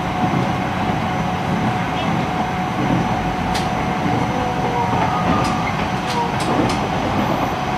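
JR East E129 series electric train with a Toyo IGBT inverter, heard from inside the car while running between stations: a steady rumble of wheels on rail with a steady tone over it. A few short, sharp clicks come in the second half.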